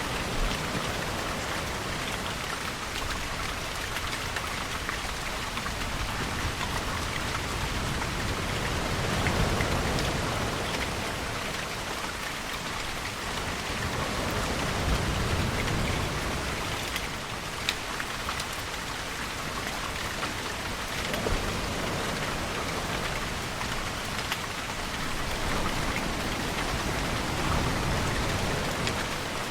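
Steady rainfall with scattered individual drops tapping on a surface, under a slow low swell of ocean waves that rises and falls every several seconds. A few sharper drip ticks stand out here and there.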